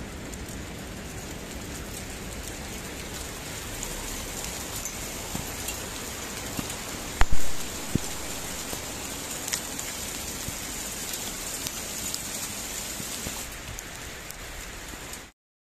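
Steady rain falling, with scattered faint ticks of drops striking, and one sharp knock about seven seconds in. The sound stops suddenly near the end.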